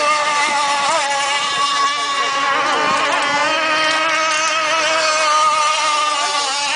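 Gas-powered RC rigger race boats' two-stroke engines running flat out: a steady, high-pitched engine buzz whose pitch wavers slightly.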